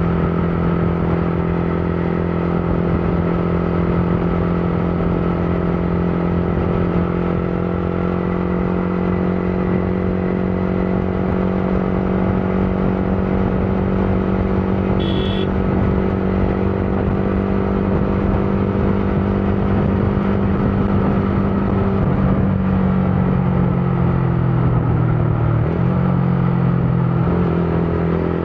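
Motorcycle engine running steadily while riding; about 22 seconds in, its note drops and wavers as the bike eases off, then picks up again near the end. A brief high-pitched tone sounds about halfway through.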